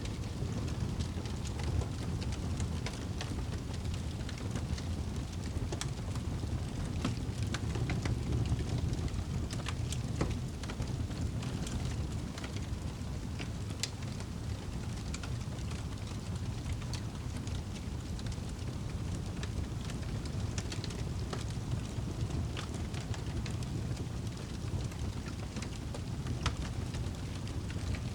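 Campfire burning, with irregular sharp crackles and pops from the burning wood over a steady low rush.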